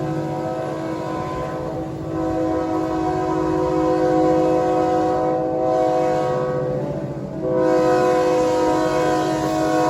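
Locomotive's multi-note air horn sounding long blasts at steady pitch: one ends about two seconds in, a second lasts about five seconds, and a third starts about seven and a half seconds in.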